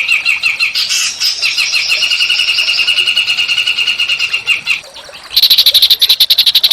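Songbird song from a bird-song training recording: fast repeated chirping notes run into a tighter trill, then after a short break about five seconds in, a higher, harsh, very rapid chattering rattle starts.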